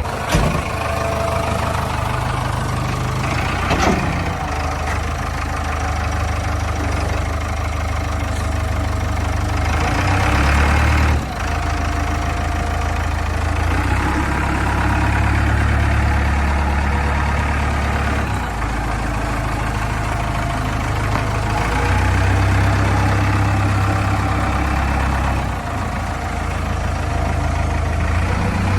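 Diesel engine of a JCB 3DX backhoe loader running under varying load, its low drone swelling and easing every few seconds as the machine works, with a brief dip about eleven seconds in.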